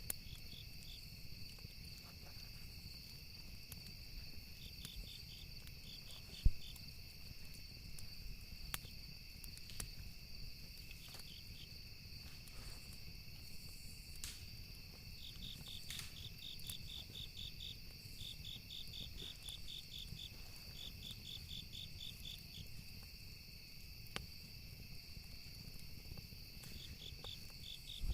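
Campfire ambience: crickets chirping in rapid pulsed trains over a steady high insect drone, with a low rumble and scattered sharp pops of crackling wood, one much louder pop about six seconds in.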